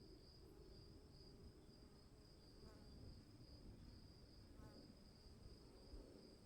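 Crickets chirping in a faint, continuous pulsing trill.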